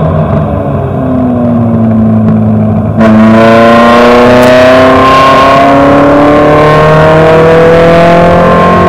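Alfa Romeo GT's naturally aspirated four-cylinder engine, enlarged from its original 2.0 litres, under way. It runs at part load for the first few seconds, then about three seconds in it gets suddenly louder and climbs steadily in pitch as the car accelerates hard through the gear.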